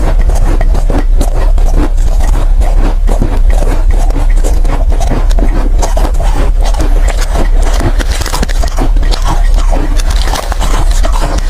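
Close-up crunching and chewing of soft, powdery ice, a dense unbroken run of crackly crunches over a steady low hum.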